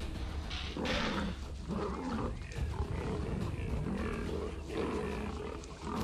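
Leopard growling and snarling: a harsh snarl about a second in, then repeated low growls, over music with a steady low drone.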